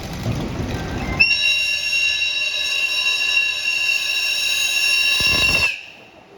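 Train running by, then its warning horn sounding one long, steady, high-pitched blast for about four and a half seconds. The horn cuts off abruptly with a slight drop in pitch.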